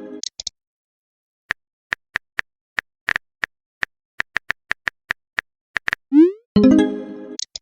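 Messenger-app sound effects: a run of short, irregular typing clicks, then about six seconds in a quick rising swoop followed by a bright chime that rings for about a second and fades, a new-message alert.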